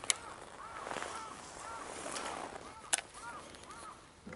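A bird calling in a rapid series of short, arched notes, with two sharp clicks, one at the start and one about three seconds in.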